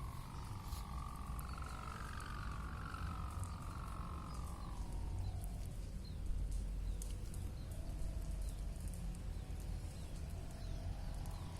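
Wind buffeting the microphone in low rumbling gusts, with a faint hum that rises and then falls in pitch over the first five seconds and returns more weakly near the end.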